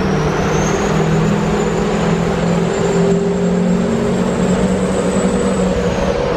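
2005 Duramax LLY 6.6-litre V8 turbo-diesel with a compound turbo kit pulling hard. A high turbo whine climbs, holds steady over the engine, then falls away near the end as the throttle comes off.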